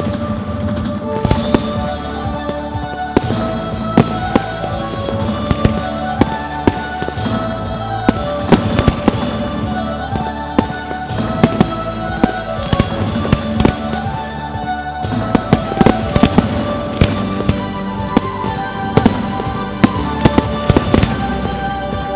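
Fireworks display: a steady run of sharp bangs and shell bursts, several a second at times, over music with a melody.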